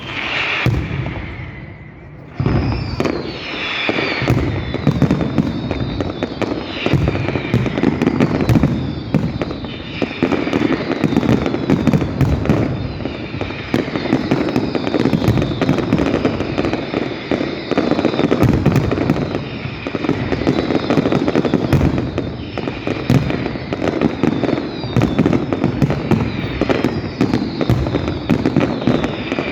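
Fireworks display going off without a break: a dense run of bangs and crackling, with whistling streaks rising and falling over it, after a brief lull about two seconds in.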